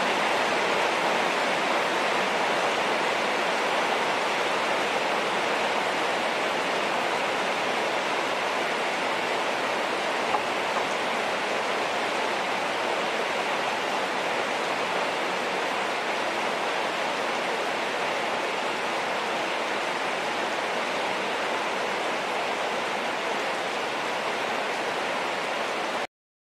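Heavy rain falling steadily, an even hiss with no let-up, that cuts off suddenly near the end.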